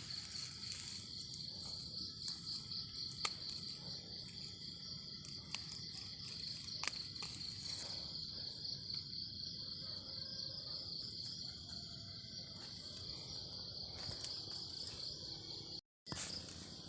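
Insect chorus, a steady high trill, with a few faint clicks and rustles. The sound cuts out for an instant near the end.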